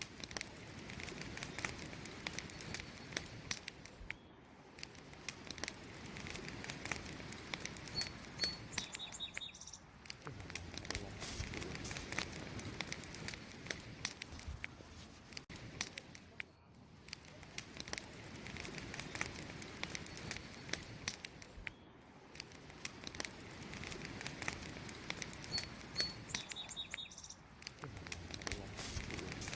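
Wood burning in a campfire, crackling and popping continuously. A few faint, short high chirps, likely a bird, come about a quarter of the way in and again near the end.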